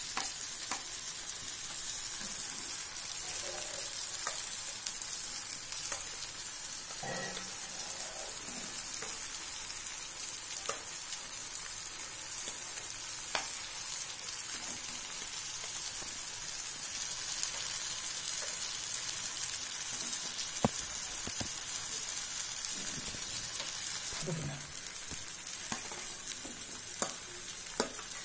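Onion-tomato masala sizzling steadily in a kadai over a low flame, with scattered light clicks of a metal fork against the plate and pan as boiled-egg slices are laid onto it.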